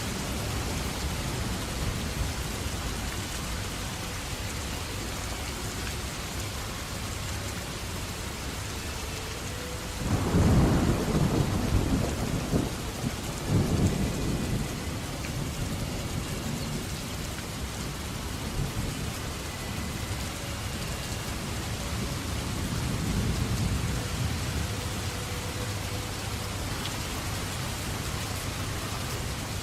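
Steady rain falling through a thunderstorm. About ten seconds in, a sudden thunderclap rumbles for a few seconds, followed by a second crack about three seconds later. A fainter rumble of thunder comes later on.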